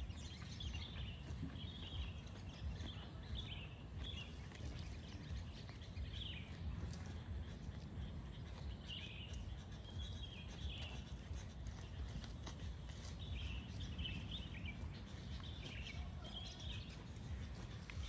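Small birds chirping in short, repeated twittering phrases, with gaps between them, over a steady low rumble.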